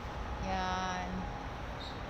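A woman says one short word, about half a second in, over a steady low background rumble.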